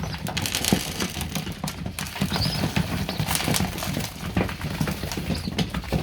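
Young racing pigeons pecking grain, a fast, irregular patter of small taps, with a couple of brief high peeps.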